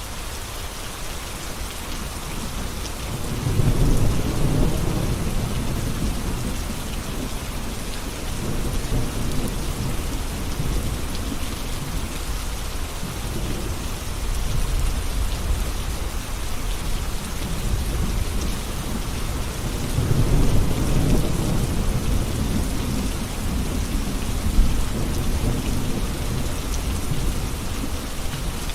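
Steady heavy rain hissing, with two long rolls of thunder: one swelling about three seconds in, the other about twenty seconds in.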